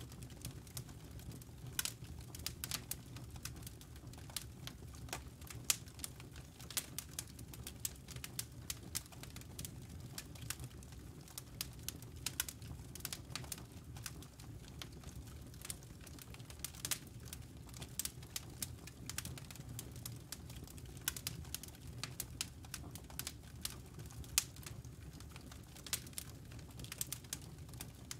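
Wood fire burning in a fireplace, with frequent irregular crackles and snaps from the logs over a low steady rumble.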